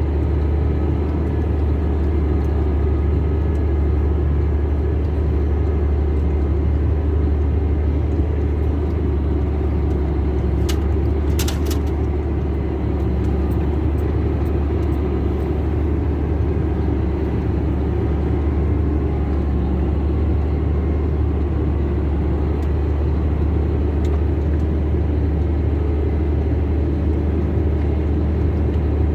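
Steady low rumble like a car on the move, unchanging throughout, with a few brief clicks about eleven seconds in.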